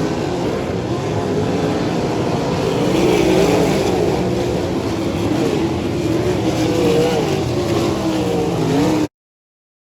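Racesaver sprint car's 305 V8 engine running during its warm-up, the revs wavering up and down. The sound cuts off suddenly about nine seconds in.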